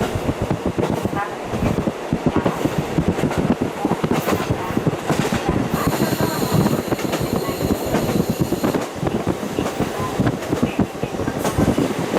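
KiHa 40 series diesel railcar running along the track, heard through a fully open window: a continuous rumble and clatter of wheels on rail. From about six to nine seconds in, a high steady wheel squeal rides over it.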